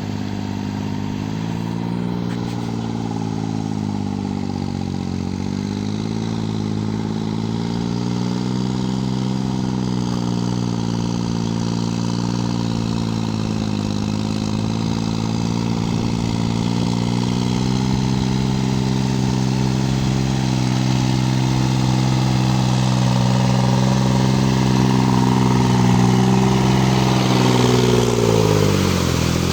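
Kubota L2202 tractor's diesel engine running steadily under load, its speed sagging slightly now and then and dropping sharply before picking back up near the end.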